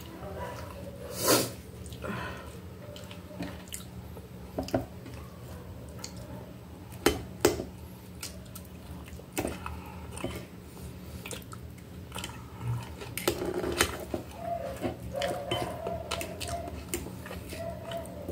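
Close-up eating sounds: chewing and wet mouth sounds, with sharp clicks and taps scattered throughout, the loudest about a second in and two more close together around seven seconds in. Near the end, a fork and knife work against a glass plate.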